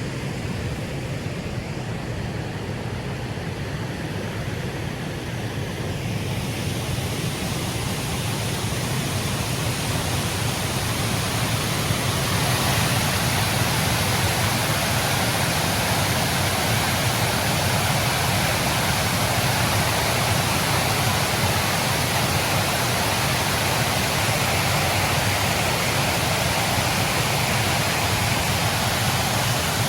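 Snowstorm wind blowing steadily with a rushing noise and a low rumble. It grows louder about six seconds in and again about twelve seconds in.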